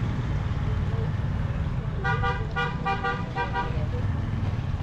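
A vehicle horn honks about four short times in quick succession, starting about two seconds in, over a steady low rumble of vehicle and road noise.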